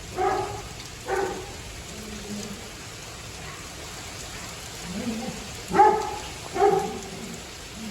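Steady rain from a thunderstorm, with an animal calling in short, pitched pairs: two calls at the start and two more about six seconds in, plus fainter, lower calls in between.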